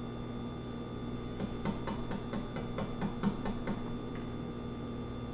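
A quick run of about ten light clicks, roughly four a second, starting a little over a second in and stopping after about two seconds, over a steady low hum.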